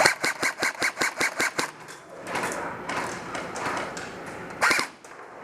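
Airsoft gun firing a quick string of single shots, about six sharp cracks a second for a second and a half, with the selector just set back to semi-auto. A stretch of rough noise follows, and one more sharp crack comes near the end.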